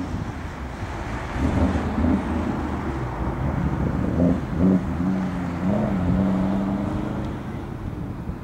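A motor vehicle's engine running nearby, its pitch wavering up and down, coming up about a second in and fading away near the end.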